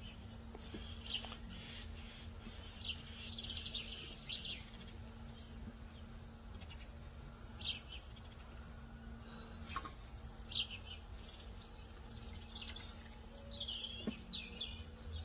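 Birds chirping in short scattered calls, with a steady low hum underneath.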